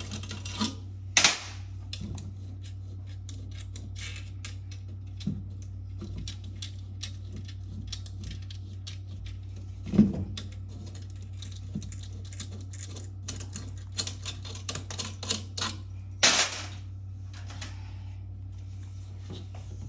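Irregular metallic clicks and taps of hand tools, bolts and metal parts being handled during work on a washing machine's direct-drive motor. A few louder clanks and scrapes come about a second in, halfway through and late on. A steady low hum sits underneath.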